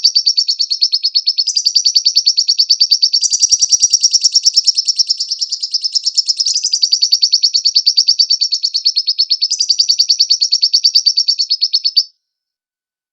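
Lovebird song: a long, rapid chattering trill of high chirps that cuts off abruptly near the end.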